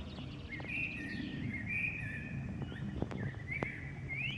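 A songbird singing in short trilled and chirping phrases over a steady low rumble, with a couple of sharp clicks about three seconds in.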